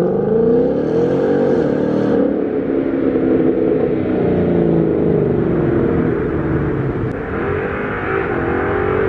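Mustang GT's 5.0 V8, with an H-pipe and the stock mufflers, at full throttle: the revs climb hard, drop sharply at a gear change about a second and a half in, then climb again.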